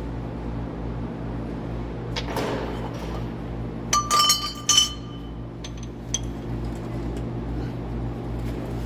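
Metal tools or parts clinking together: a cluster of sharp clinks with a brief ring about four seconds in, then a few lighter ticks, over a steady low hum.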